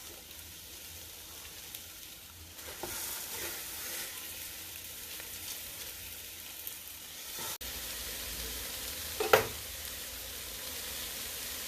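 Skinless chicken legs sizzling in a hot pan with sautéed onion, green pepper and celery, a steady frying hiss. About nine seconds in there is a single short knock.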